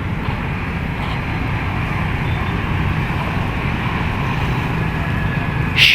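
Steady rumble of city traffic, with a short, loud burst of hissing noise near the end.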